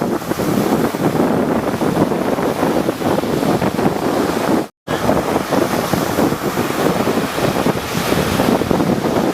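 Rough sea waves surging and breaking, with wind buffeting the microphone. A brief moment of complete silence cuts in about halfway, after which the surf and wind resume.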